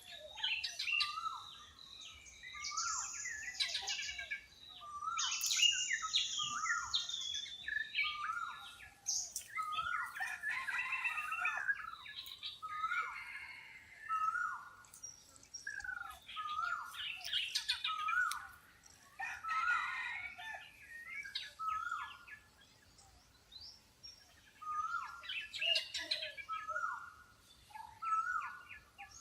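A chorus of several wild birds calling and singing. One bird repeats a short down-slurred whistle about once a second, among higher chirps and trills from others, with a few loud buzzy high calls in the first several seconds.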